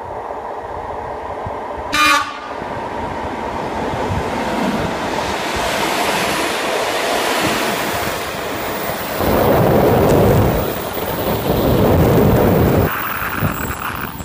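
A ČD class 460 'Tornádo' electric multiple unit gives one short horn blast about two seconds in. It then runs in past the platform with growing wheel-and-rail noise, loudest in two surges as the cars go by. A squeal begins near the end as it brakes.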